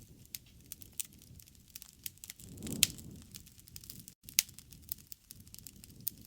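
Wood campfire crackling with irregular sharp pops over a low rumble of the flames; the two loudest pops come about 3 and 4.5 seconds in.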